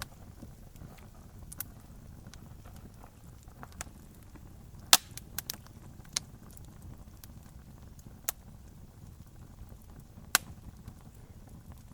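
Campfire crackling: a low steady rumble of burning with sharp pops and snaps of wood every second or two, the loudest about five seconds in.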